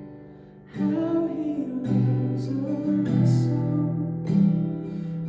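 Acoustic guitar strumming slow chords, a new strum about once a second after a brief quiet moment at the start.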